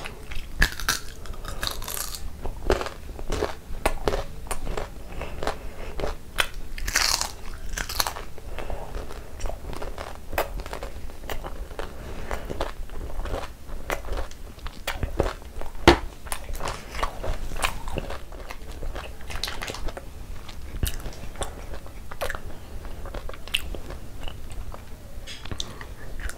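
Close-miked eating sounds: wet chewing and crisp, crackly crunching of a syrup-soaked fried orange Indian sweet (imarti), irregular throughout. About sixteen seconds in comes one sharp, louder crack.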